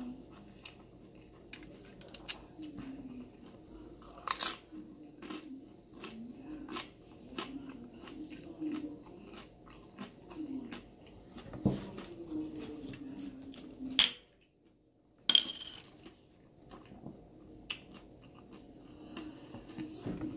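A person chewing a mouthful of vegan corn taco close to the microphone: a run of wet mouth clicks and crunches, with a few louder clicks. The sound drops out briefly about two-thirds of the way through.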